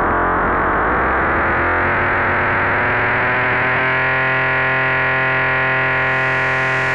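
K-ACCUMULATOR synthesizer module playing a drone in its XPM/2OP mode. A churning, shifting texture settles about four seconds in into a steady stack of held tones, and the sound grows gradually brighter.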